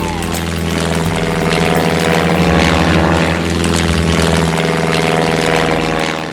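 A loud, steady, engine-like drone, held with little change.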